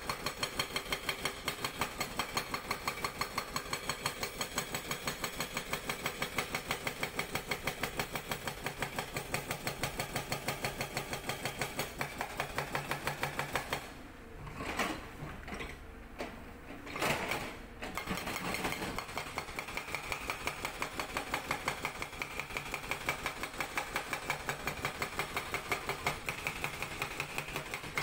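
Sangdo SD220 hydraulic breaker on a Cat 320D excavator hammering rock in rapid, even blows. It stops for a few seconds about halfway through, with a few separate knocks, then starts hammering again.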